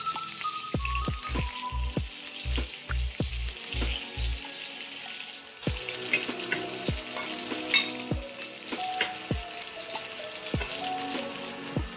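Slices of tokwa (firm tofu) sizzling as they shallow-fry in oil in a stainless steel pan, a steady crackling hiss. Background music with a regular beat and a simple melody plays along.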